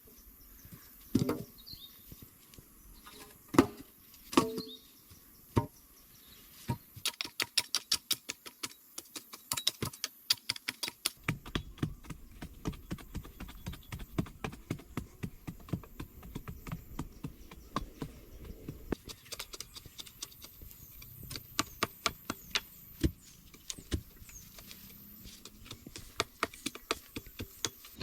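A few separate knocks, then a long run of quick light taps, several a second, that becomes scattered near the end.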